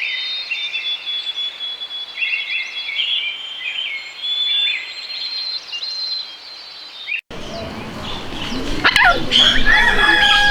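Small birds chirping and trilling, high-pitched. About seven seconds in the sound cuts off briefly and louder bird calls start over a fuller background noise.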